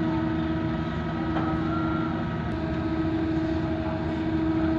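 A berthed car ferry's engines running with a steady drone and a constant hum.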